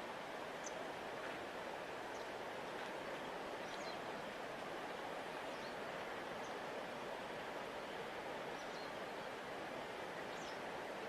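Steady rush of a large river flowing past its bank, with faint, brief high bird chirps dotted through it.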